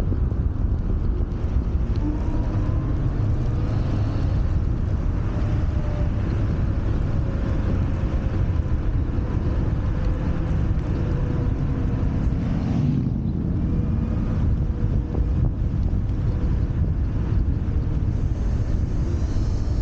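Wind buffeting the microphone and road noise while riding a Wolf Warrior 11+ electric scooter, steady throughout, with a faint thin whine that drifts slightly in pitch.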